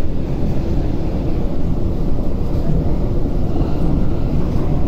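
Steady running rumble of an MTR Tung Chung Line train travelling at speed, heard from inside the carriage.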